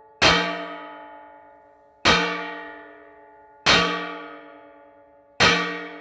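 A metal pot struck four times at a slow, even pace, each clang ringing with a bell-like tone and fading before the next. It is being beaten to scare birds off the rice crop.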